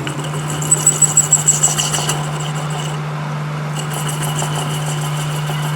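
Steady low machine hum with a quick run of about eight sharp clicks between one and two seconds in.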